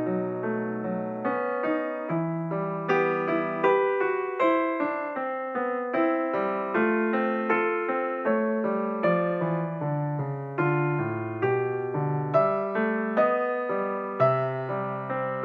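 Background music: a gentle piano or electric piano piece, notes struck about twice a second over sustained bass notes.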